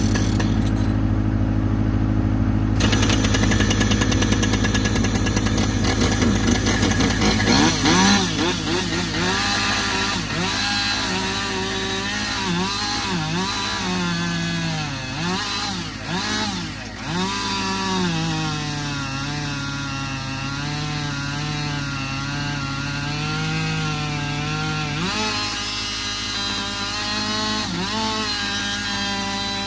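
Two-stroke chainsaw bucking up a felled dead tree. After several seconds of steady running, its pitch rises and sags again and again as it bites into the wood, then holds high through a long cut before dropping back. A steady lower engine hum runs underneath.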